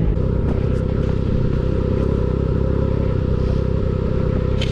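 Snowmobile engine running at a steady speed while riding over snow.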